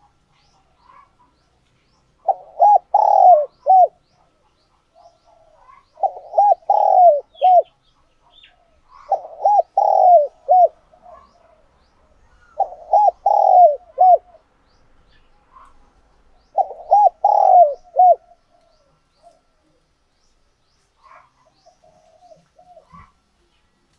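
Spotted dove cooing: five phrases of several quick low notes each, one every three to four seconds, with faint softer notes between them. This is the song of a tame decoy dove.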